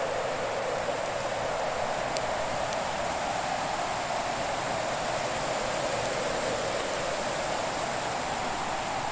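Fireplace ambience: a steady rushing hiss with a few faint, sparse crackles of burning wood.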